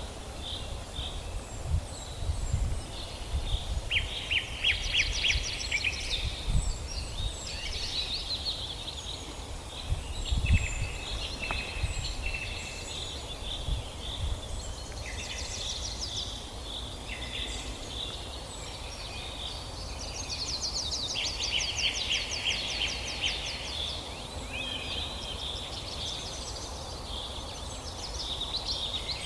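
Several songbirds singing together: overlapping chirps and fast rattling trills, with a few low thumps in the first half.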